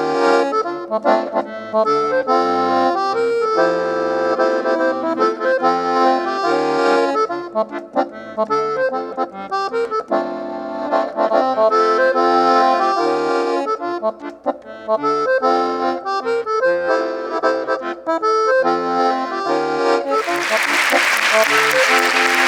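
Accordion playing a lively instrumental introduction, a moving melody over chords. About twenty seconds in, a loud wash of noise joins it.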